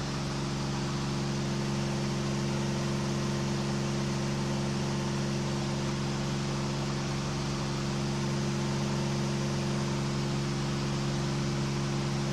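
KR2 light airplane's engine and propeller droning steadily in flight, under a steady hiss of rushing air; pitch and level hold even throughout.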